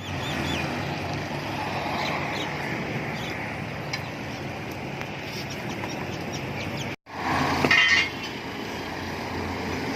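Outdoor vehicle and engine rumble with a few bird chirps near the start. The sound cuts out abruptly about seven seconds in, then returns with a brief, louder pitched sound.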